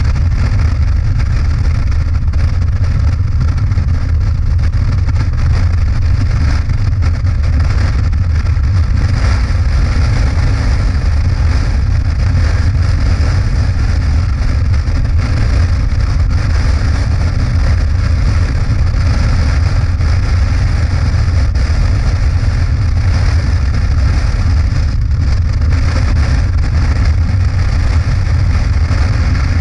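Motorcycle cruising at a steady speed: a loud, unbroken low rumble of engine and road that holds the same pace throughout.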